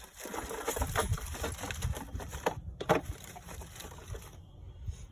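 Irregular light clinks, scrapes and rattles of drum brake parts (shoes, adjuster and return spring) being handled and fitted, with one sharper knock a little under three seconds in.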